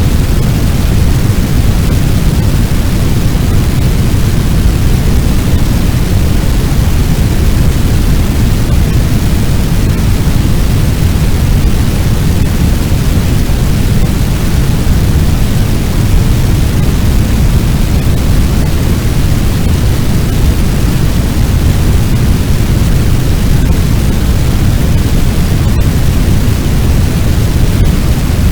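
Fire sound effect: a steady, loud noise like a big blaze, heaviest in the low bass, with a couple of faint ticks near the end.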